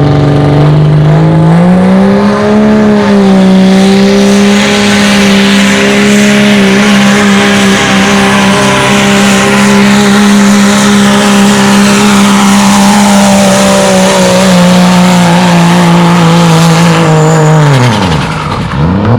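Dodge pickup's engine pulling a sled at full throttle. The revs climb over the first couple of seconds, hold steady under load through the pull, then fall away sharply near the end as the clutch goes in.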